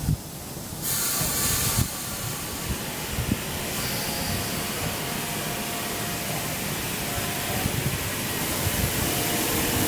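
Electric multiple-unit train pulling out of the platform: a short burst of air hiss about a second in, then steady rolling noise with a faint motor whine that grows louder as it gathers speed.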